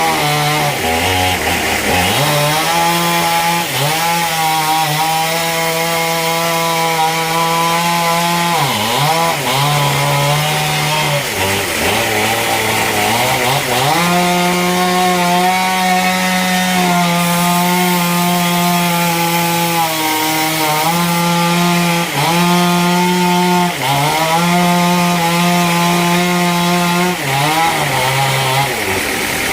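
Chainsaw running under load, cutting through wood. Its engine pitch sags briefly every few seconds as it bogs into the cut, then picks back up.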